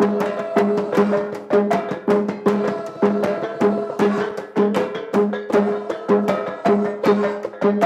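Live percussion music for the Ngajat dance: pitched, ringing strikes in a repeating pattern about twice a second, with quicker sharp clicks between them.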